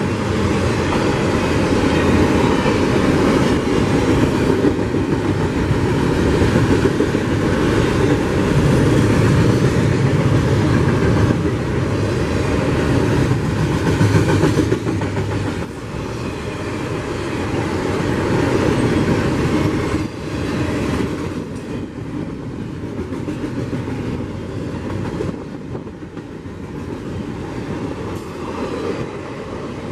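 CSX freight train rolling past, its railcar wheels running on the rails, getting quieter from about halfway through.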